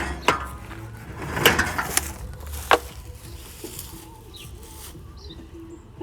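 A few sharp knocks and clatters, like hard objects being handled, in the first three seconds, then birds chirping a couple of times.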